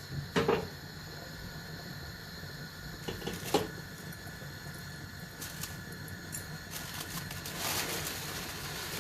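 Steady low mechanical hum, with a few light knocks about half a second in and again around three and a half seconds, and a brief soft hiss near the end.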